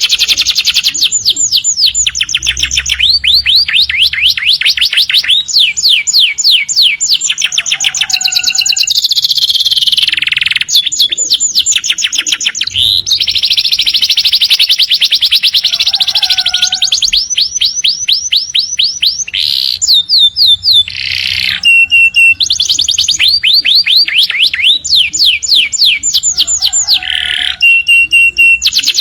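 Domestic canaries singing a long, continuous song of fast trills of rapidly repeated high notes, with a couple of short held whistles in the later part.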